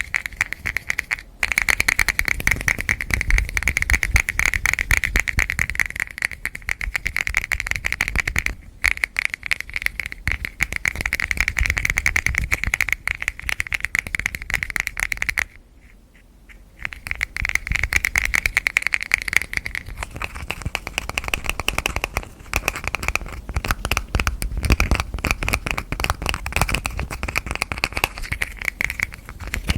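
Fast, continuous hand tapping on hard objects. It breaks off briefly about 1.5 and 9 seconds in, and for about a second and a half around the middle.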